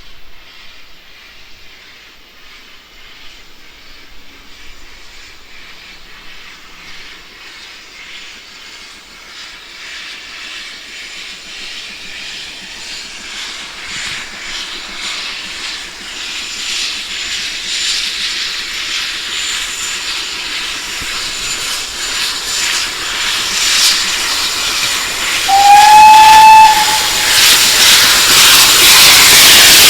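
Steam locomotive drawing closer, its hiss growing steadily louder, with one short whistle blast near the end.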